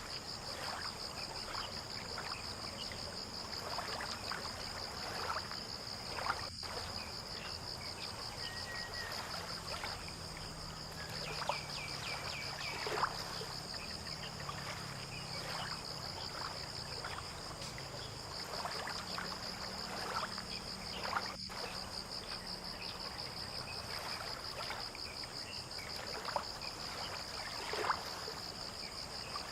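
Waterside dawn ambience: a steady, high, finely pulsing insect trill runs throughout over lapping water, with scattered short chirps. A faint low engine hum comes in from about ten seconds to about twenty-two seconds.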